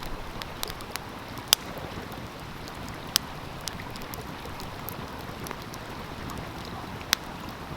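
Wood fire crackling with scattered sharp pops, three of them louder, over the steady rush of a flowing stream.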